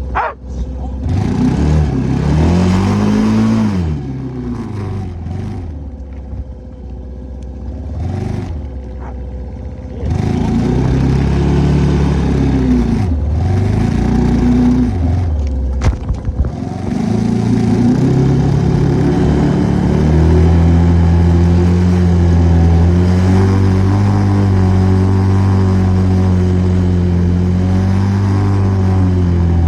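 ATV engine under way, revving up and easing off several times, then holding a steady higher speed for the last third.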